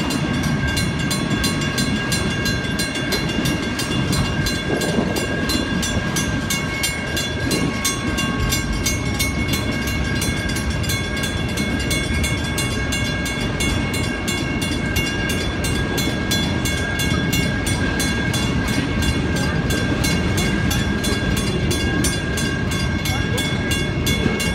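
Freight train of autorack cars rolling past a grade crossing: a steady rumble of wheels on rails. The crossing's warning bell rings steadily over it.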